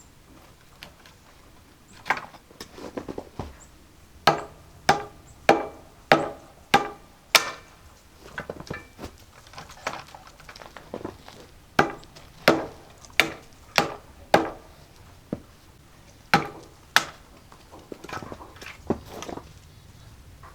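Hammer driving nails into wood: runs of five or six sharp blows about 0.6 s apart, with lighter taps between the runs.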